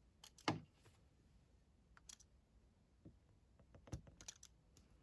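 Scattered small clicks and taps of pliers working at a stuck float pin in a motorbike carburettor, with long quiet gaps between them. The loudest click comes about half a second in, and a short cluster of clicks comes near the end.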